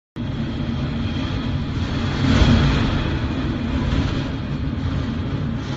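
Strong gale-force wind blasting and buffeting the microphone as a deep rumble, gusting up about two seconds in.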